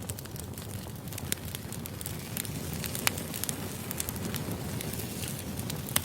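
Firewood burning: a steady low rumble of flames with frequent sharp crackles and pops, the loudest pops about three seconds in and near the end.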